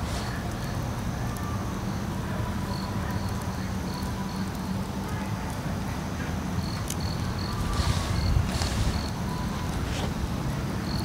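Insects chirping in a steady high pulse, about four chirps a second in runs, over a low steady rumble. A couple of louder rustling bursts come about eight seconds in.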